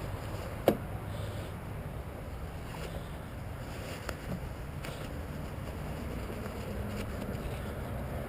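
Low steady rumble with a sharp click just under a second in and a few faint ticks later.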